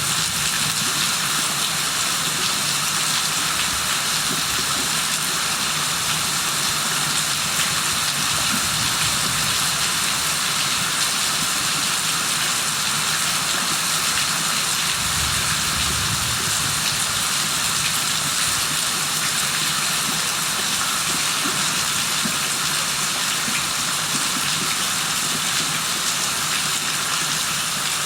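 Steady rain falling in an even, dense hiss with no letup. A faint low rumble swells briefly about halfway through.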